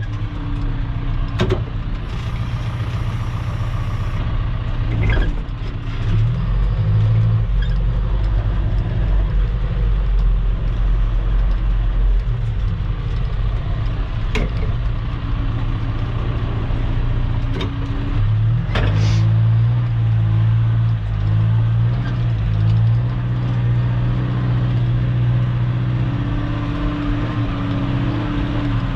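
Heavy earthmoving machine's diesel engine running steadily, its pitch shifting a few times as the load changes, with several sharp clanks from the machine.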